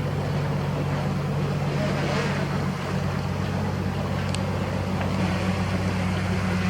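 A boat's engine running steadily with an even low hum, over the rush of water and wind.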